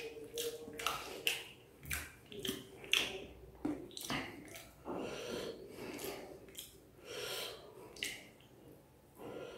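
Close-miked eating by hand: wet chewing and lip smacks in short, irregular clicks, about one or two a second.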